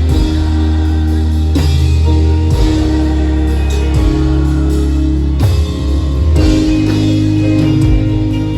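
Live gospel worship band playing between sung lines: sustained bass notes under held chords, with guitar and drums.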